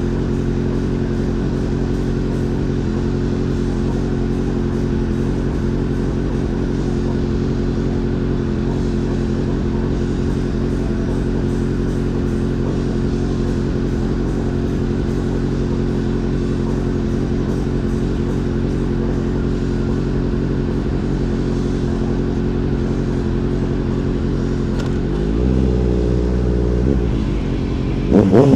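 Motorcycle engine running at a steady pitch, as when cruising at constant speed, then changing pitch about 25 seconds in and revving up sharply near the end.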